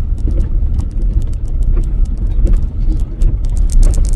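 Low steady rumble of a truck heard from inside its cabin while driving in snow, with scattered small clicks and knocks.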